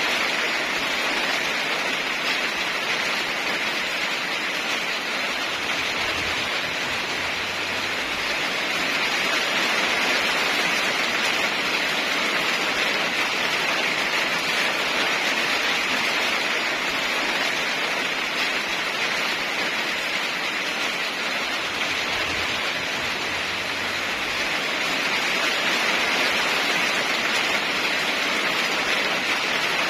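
Rain falling steadily, an even, unbroken wash of noise.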